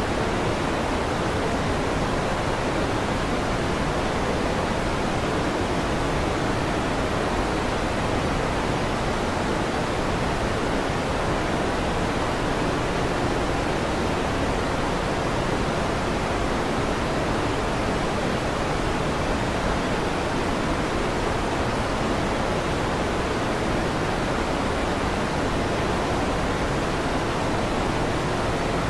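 Steady fan noise: an even, unbroken rushing hiss, heaviest in the low and middle range, with no thunderclaps.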